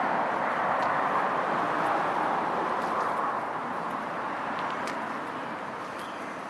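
Pressure washer jet spraying onto a tarmac driveway: a steady hissing rush of water that eases off a little in the second half.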